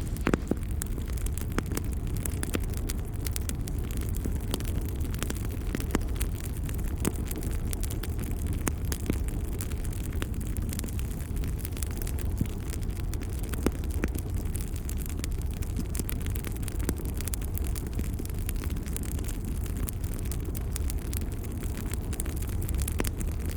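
Wood fire crackling: frequent sharp pops and crackles scattered over a steady low rumble of flames.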